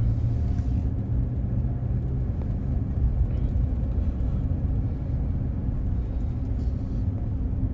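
Road vehicle driving, heard from inside the cabin: a steady low rumble of engine and road noise.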